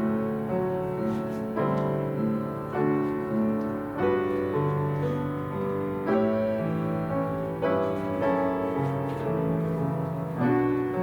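Piano playing a slow, gentle piece, with notes and chords struck about once a second and left to ring and fade.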